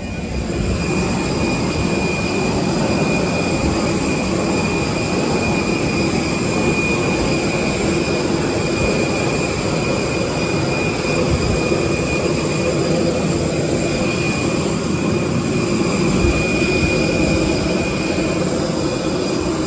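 Steady Airbus A320 cabin noise heard from inside the cabin: a constant rush of air and low rumble with a steady high-pitched whine, unchanging throughout.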